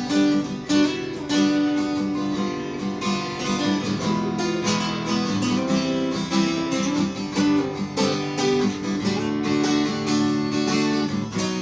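Acoustic guitar played live, strummed and picked in an instrumental break of a song, with no voice.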